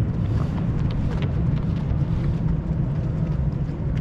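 Marathon runners' footsteps tapping lightly and irregularly as they pass, over a loud, steady low rumble.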